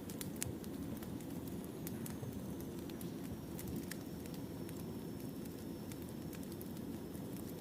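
Wood fire burning: a steady low rumble of flames with sharp crackles and pops from the firewood at irregular intervals.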